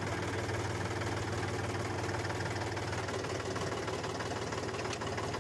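Small engine of a homemade mini tractor idling steadily with a rapid, even chugging.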